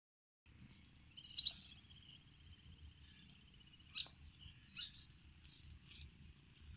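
Birds chirping outdoors, with a rapid trill about a second in and sharp single chirps near the middle, over a low wind rumble on the microphone.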